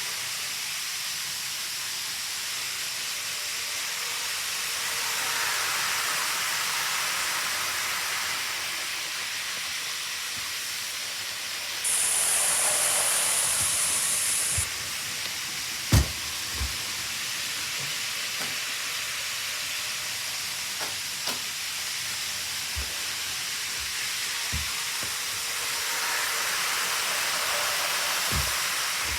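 Model trains running on a layout: a steady hissing running noise that swells twice as a train passes close. A sharp high hiss lasts about three seconds near the middle, and several sharp clicks follow.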